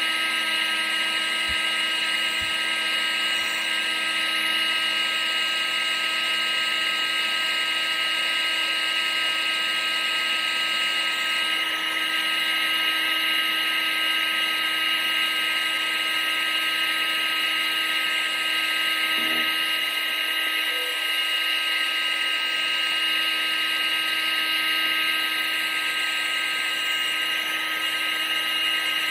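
Household appliance's electric motor and fan running steadily: a constant high whine over an airy hiss.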